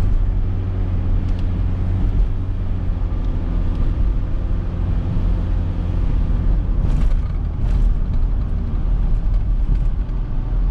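Cabin sound of a 1994 Mitsubishi Delica L400's 2.8-litre turbo diesel running on the move: a steady low engine hum under road noise. Two short clicks or swishes come about seven seconds in.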